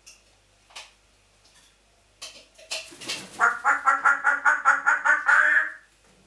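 African grey parrot making a rapid run of repeated pitched calls, about six a second, starting around halfway and lasting a few seconds, after a few faint clicks.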